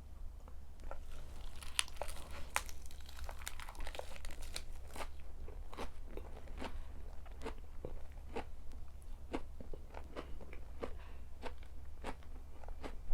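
Close-miked chewing of crisp food: a quick run of crunches over the first few seconds, then steady chewing with a crunch roughly every half second to second.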